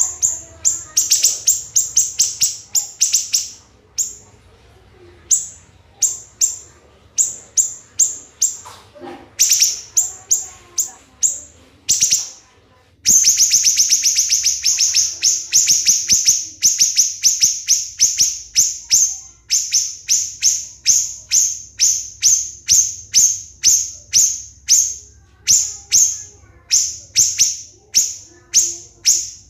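Siri-siri bird singing a loud, rapid series of sharp, shrill, high notes (the 'tembakan' shots prized in song training), several a second. A short pause comes a few seconds in, and a faster, tightly packed run comes about halfway through.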